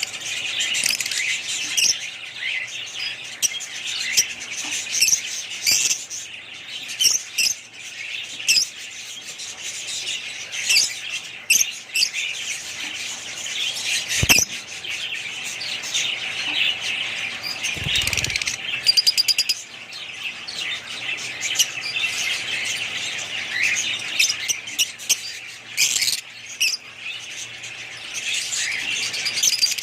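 Many small birds chirping and chattering at once in a dense, unbroken chorus, with a single sharp click about halfway through.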